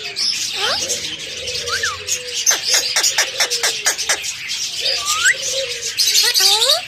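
Pet parrot whistling and chirping: short rising and falling whistles, with a quick run of about eight sharp chirps between two and a half and four seconds in.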